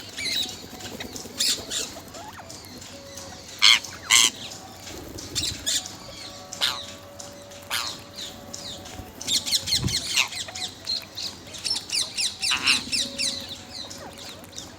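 Parrot squawking and chirping in short sharp calls, with two loud squawks about four seconds in and a fast run of chirps in the second half.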